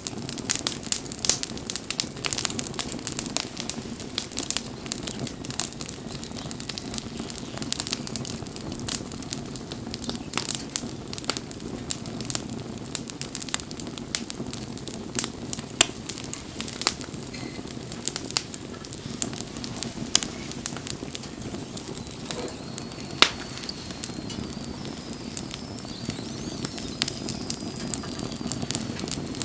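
Wood campfire burning, with a steady low rush of flame and dense, irregular crackles and pops from the burning wood. A faint, wavering high whistle sounds for several seconds near the end.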